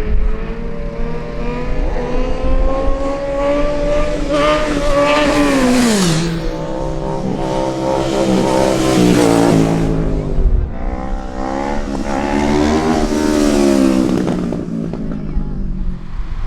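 A vehicle engine revving hard as it accelerates away. Its pitch climbs for about five seconds, drops sharply about six seconds in, then climbs and falls twice more.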